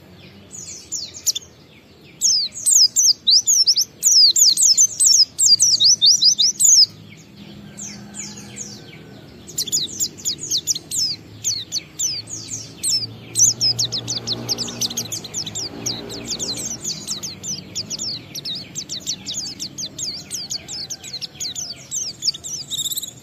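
A pleci (white-eye, Zosterops) singing a fast chattering 'ngalas' song in long runs of rapid high twittering notes. The song breaks briefly about a second and a half in and goes quieter for a couple of seconds around seven seconds in.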